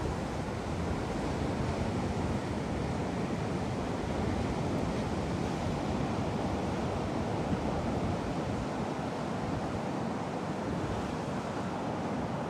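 Steady rushing of ocean surf and storm wind, with wind buffeting the microphone.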